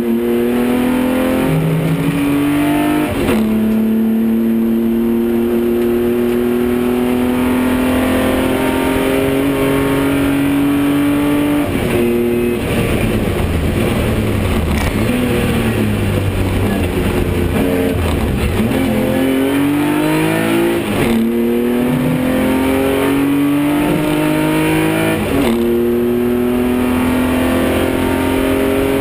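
BMW 325i's straight-six engine heard from inside the race car's cabin, revving up hard through the gears with short breaks at each upshift. In the middle the revs fall away for several seconds as the car slows, then the engine pulls up through the gears again.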